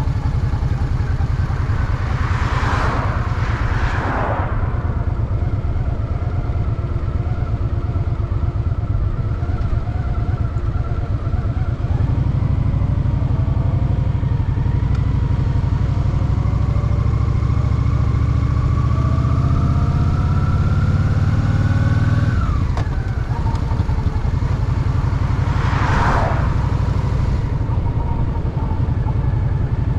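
Honda Shadow VT750 V-twin engine running under way, its note rising steadily through the middle under acceleration and falling away suddenly about two-thirds of the way through. Two short rushes of noise stand out, one near the start and one near the end.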